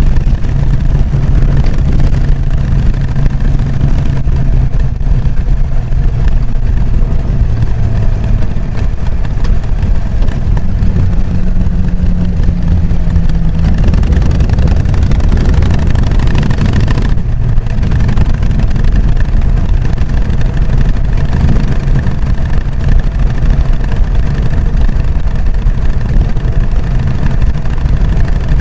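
Harley-Davidson Sportster XL883N Iron's air-cooled 883 cc V-twin running through its stock exhaust, a steady low beat, with a brief change in engine note about halfway through.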